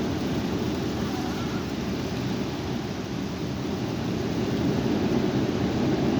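High wind buffeting the microphone: a steady, gusting low rumble with no clear tone.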